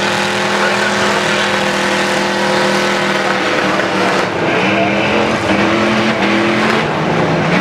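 Engines of demolition derby trucks running hard and revving, with tire noise under them. The engine tones hold steady at first, then rise and fall in pulses from about four seconds in.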